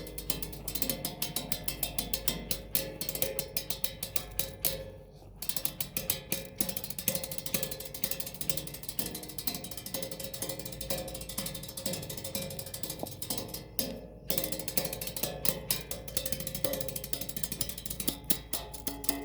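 Improvised percussion played in a fast, dense run of taps and strikes over a steady ringing tone, breaking off briefly about five seconds in and again around fourteen seconds.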